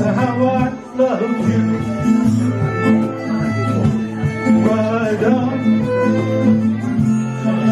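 Live acoustic folk music played without singing. Steady low held notes sound under a melody, which the tags suggest is played on a fiddle, with guitar.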